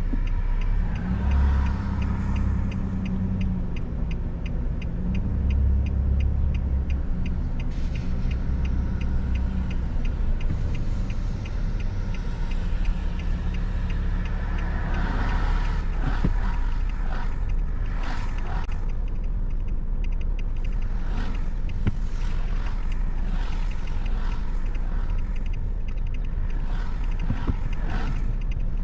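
Car driving in the rain, with a steady low rumble of road and engine throughout. A rapid even ticking, about five a second, runs through the first part, and scattered short swishes follow in the second half.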